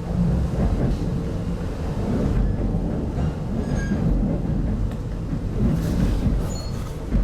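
Steady low rumble of a passenger train's wheels on the track, heard inside an RZ25T (25T-series) soft-seat coach.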